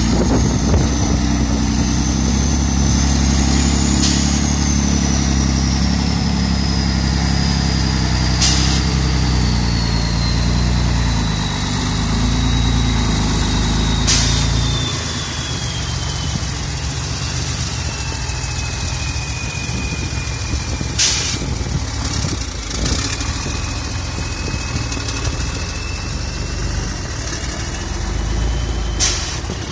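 Scania P320 truck's diesel engine running with a heavy low rumble that drops to a quieter level about halfway through. A thin high whine slowly falls in pitch and rises again near the end, and a few sharp clicks come through.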